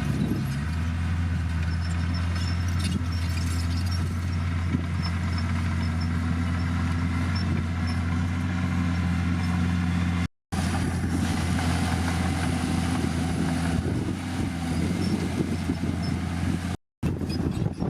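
Heavy diesel earthmoving engine running steadily with a low drone. The sound cuts out completely for a split second twice, about ten seconds in and again near the end.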